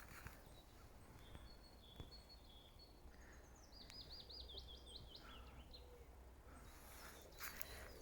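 Faint songbird singing: a few short high whistled notes, then a quick run of rapid notes that steps down in pitch. A brief faint rustle comes near the end.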